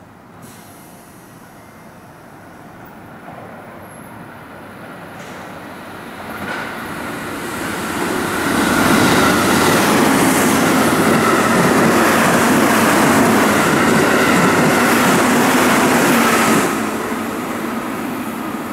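JR Central 313 series electric train passing through the station at speed without stopping. The rush of wheels on rail grows as it approaches, stays loud for about eight seconds as the cars go by, then drops off sharply near the end.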